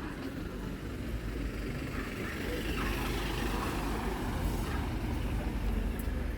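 A motor vehicle passing close by: a low engine rumble that swells through the middle, over background voices.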